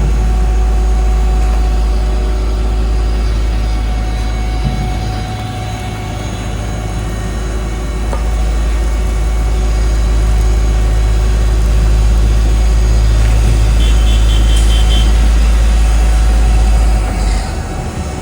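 Heavy diesel construction machinery running with a deep, steady rumble that eases for a few seconds and drops away shortly before the end. A quick run of high beeps comes about three-quarters of the way through.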